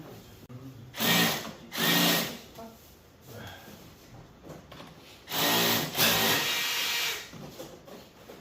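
Power drill motor running in two short bursts, then a longer run of about two seconds.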